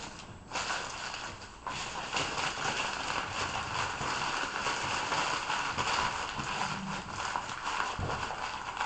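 Newspaper being crumpled and shaped by hand: a dense crackling rustle of paper that starts about half a second in and grows louder after about a second and a half.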